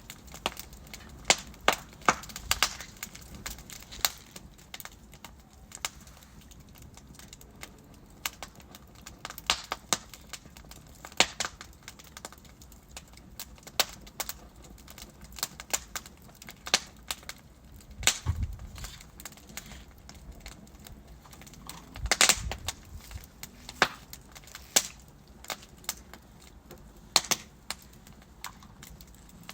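Wood fire in a fireplace crackling: burning logs giving irregular sharp pops and snaps over a soft steady hiss, with a dense burst of cracks about two-thirds of the way through.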